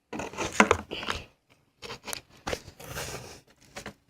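Scratching and crinkling on cardboard in three irregular bursts, with short gaps between them.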